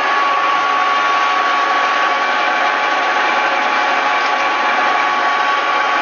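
Metal lathe running steadily while turning the chipped rim edge of an aluminium alloy wheel, a continuous machining noise with a steady high whine.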